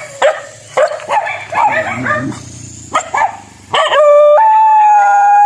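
A dog giving a string of short yips and barks, then breaking into one long held howl that jumps up in pitch partway through.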